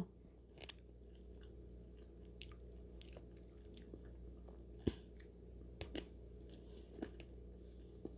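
Faint chewing of French fries, with soft, scattered crunching clicks; the loudest comes about five seconds in.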